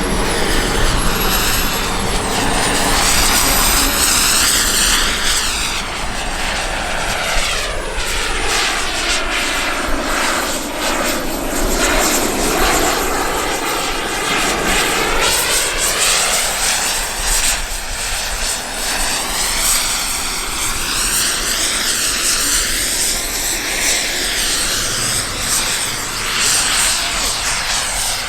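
Radio-controlled model aircraft flying low passes, its engine noise swelling and fading with a sweeping, phasing whoosh as it goes by.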